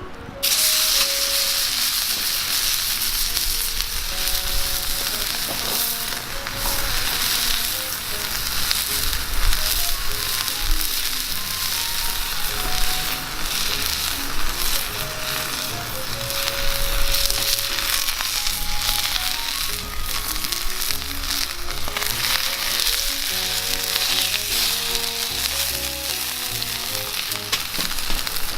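Food frying in a pan over a wood fire, sizzling steadily with scattered pops.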